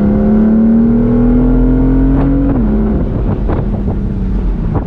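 BMW M4's twin-turbo inline-six engine and exhaust pulling under load, pitch climbing steadily, then dropping abruptly about two and a half seconds in and running on steady at a lower pitch, with a few short crackles.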